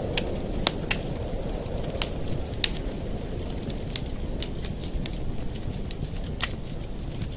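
Campfire burning: a steady low rush from the flames, with irregular sharp crackles and pops from the burning wood and one louder pop near the end.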